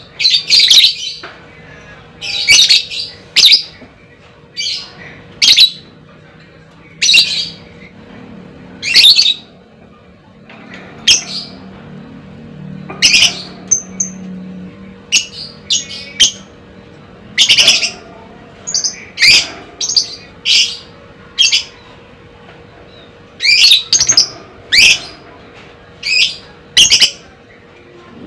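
Lovebird giving loud, sharp, high-pitched chirping calls in short bursts, about one every second or two, some coming in quick pairs or clusters.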